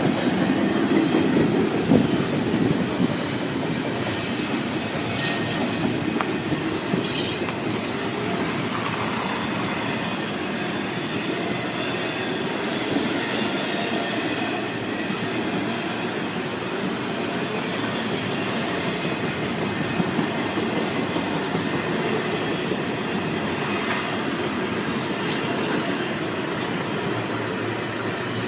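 Norfolk Southern freight train's cars rolling past, a steady rumble of wheels on rail with clickety-clack, and short bursts of high wheel squeal in the first several seconds.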